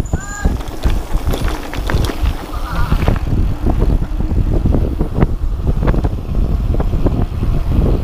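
Wind rumbling hard on the microphone of a mountain bike speeding downhill, with the bike clattering and rattling over rough ground in quick irregular knocks.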